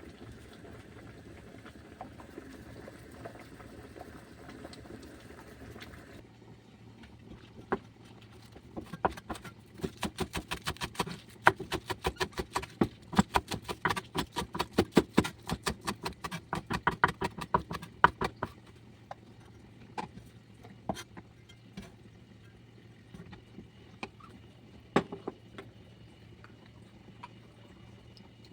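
Kitchen knife chopping on a cutting board: a run of quick, even strokes, several a second, lasting about ten seconds, then a few scattered knocks. Before the chopping, a steady low hiss stops about six seconds in.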